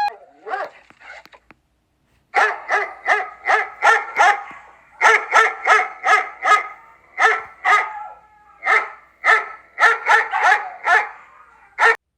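A dog barking in quick, high-pitched yaps, several a second, in bursts with short pauses between them, starting about two seconds in.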